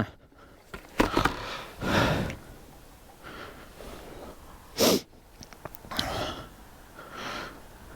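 A man's heavy breathing close to the microphone after a hard effort, a breath about every second, with one sharper, louder sniff-like breath about five seconds in.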